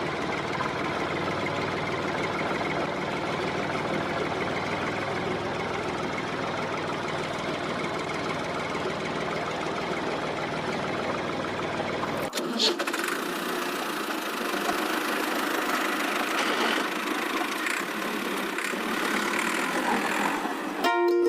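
A machine's motor running steadily. About twelve seconds in it changes abruptly to a thinner, higher sound with the low rumble gone.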